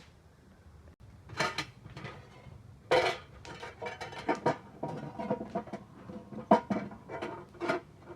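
Pots and dishes being handled: a run of irregular knocks and clinks, some ringing briefly, starting about a second and a half in and stopping near the end.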